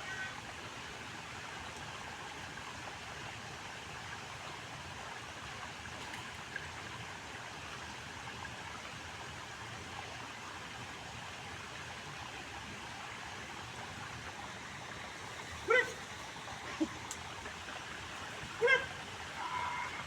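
A steady rushing background noise, like running water. Near the end a dog barks twice, two short sharp barks about three seconds apart.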